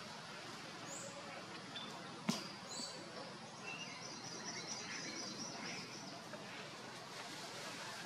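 Small birds chirping over steady outdoor background noise, with a quick run of repeated chirps from about three and a half to six seconds in. A single sharp click, the loudest sound, comes a little after two seconds in.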